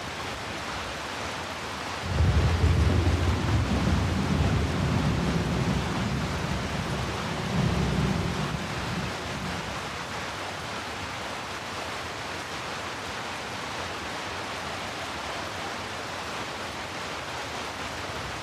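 Steady rain with a low roll of thunder that starts suddenly about two seconds in, swells again a few seconds later and dies away, leaving the rain alone.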